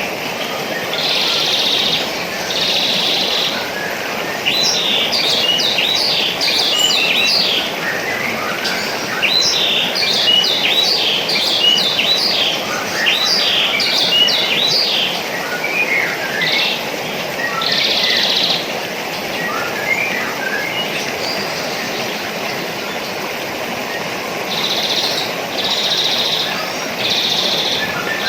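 Small birds chirping and twittering in quick, high calls, with some short buzzy calls repeated in groups, over a steady hiss in the background.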